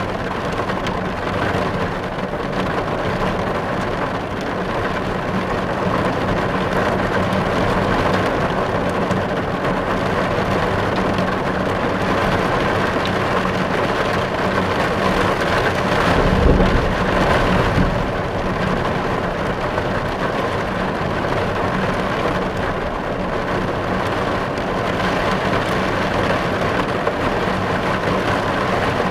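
Diesel engine of a heavy digging machine running steadily with a noisy rumble, swelling louder and deeper for a couple of seconds a little past halfway.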